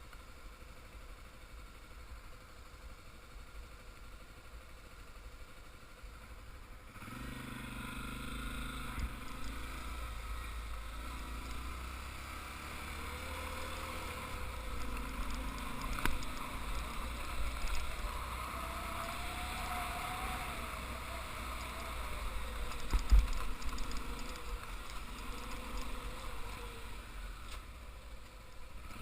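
Motorcycle engine running while riding. It gets louder about seven seconds in, and its pitch rises and falls after that.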